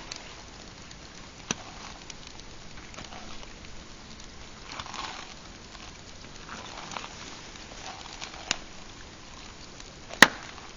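Pine campfire crackling with many small ticks and three sharp pops, the loudest near the end, over soft swishes of small waves lapping the shore.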